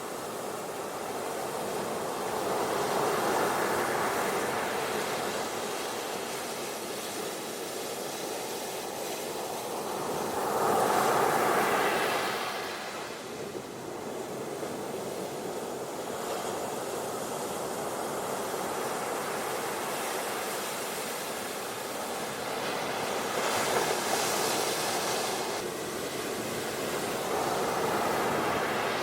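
Ocean surf washing onto a beach: a steady rush of water that swells and falls back as waves break, the loudest wave about eleven seconds in and others near the start and near the end.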